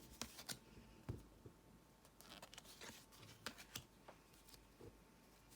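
Faint, scattered clicks and soft rustles of thick tarot cards being handled, at an uneven pace.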